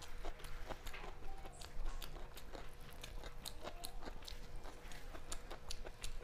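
Close-up chewing of a mouthful of peas pulao and chicken curry eaten by hand, with many short, irregular wet mouth clicks. Near the end come faint sounds of fingers working the rice on a steel plate.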